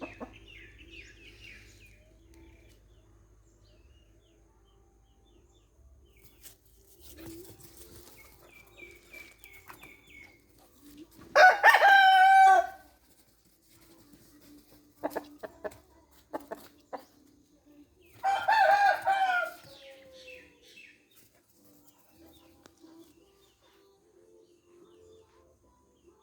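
A rooster crowing twice, about eleven seconds in and again about eighteen seconds in, with quieter chicken clucks and calls between the crows.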